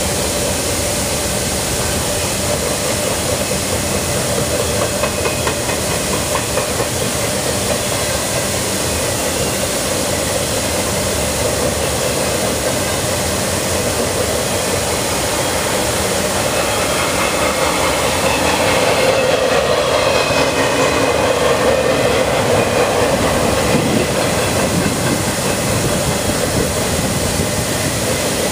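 Empty intermodal flatcars of a freight train rolling past, steel wheels rumbling and clacking on the rails, getting louder for a few seconds a little past the middle.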